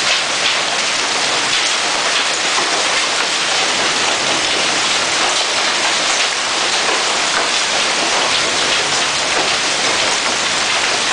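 Hailstones, from large-pea and marble size up to quarter size, pelting down in a steady, dense patter of small impacts.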